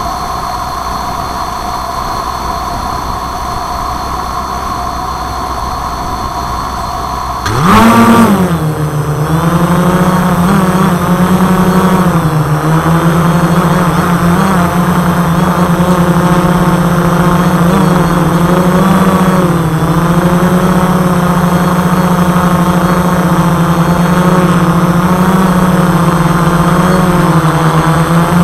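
ArduCopter Y6B multirotor's electric motors and propellers: a steady whine for the first seven or eight seconds, then a sudden spin-up into a loud buzzing hum. The pitch of the hum wavers gently up and down as the throttle is adjusted in hover.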